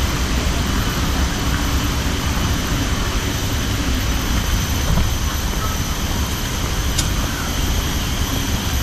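Steady rumbling noise with a few faint steady high tones above it.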